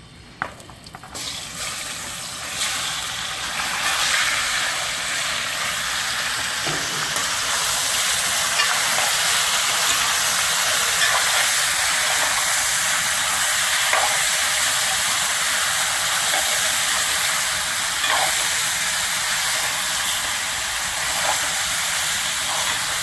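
Chicken frying in hot oil and seasoning paste: a sizzle that builds over the first few seconds after the meat goes in, then holds steady, with a few light clicks from stirring.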